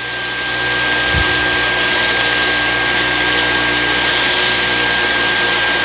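Dyson V15s Detect cordless stick vacuum running on boost with its carpet head: a steady high-pitched motor whine over rushing airflow. It grows a little louder in the first second, with a brief low knock about a second in.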